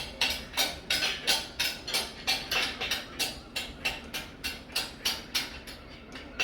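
Rapid, even sharp beats, about three or four a second, keeping a steady rhythm.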